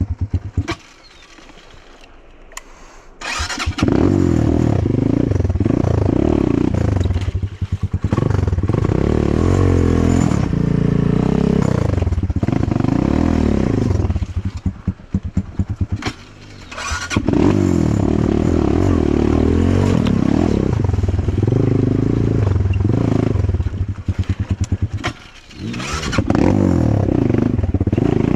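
Enduro motorcycle engine: it falls quiet about a second in, starts again a few seconds in, then revs up and down repeatedly, with the throttle dropping away briefly twice.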